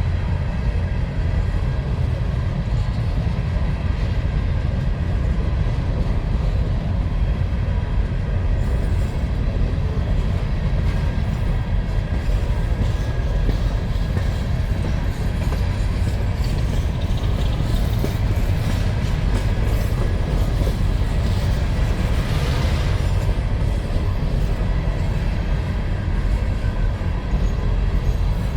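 A freight train of empty mine cars rolling past, a steady heavy rumble of steel wheels on the rails.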